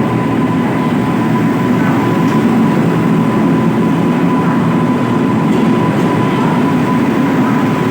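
Freight train hauled by twin WAG-9H electric locomotives rolling past: a steady, loud rumble of wheels on rail with a thin steady whine over it.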